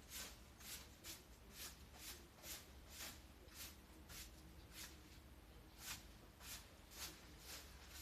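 Broom sweeping outdoor ground in short, even swishing strokes, about two a second, with a brief pause a little past the middle.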